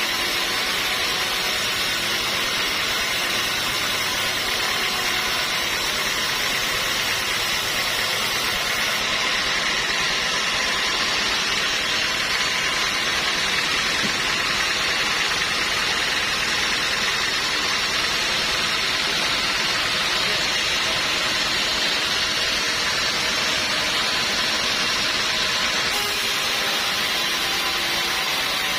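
Sawmill machinery running steadily: an even hiss with a faint hum underneath, unchanging throughout.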